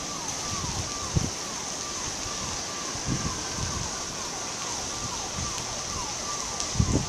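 Distant electronic siren or alarm sounding a repeated falling tone about twice a second, over a steady hiss of hurricane wind and rain, with a few low thumps of wind buffeting the microphone.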